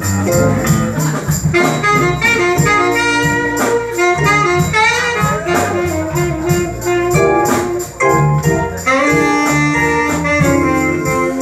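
Live jazz band playing, with a horn soloing in fast melodic runs over drums and bass.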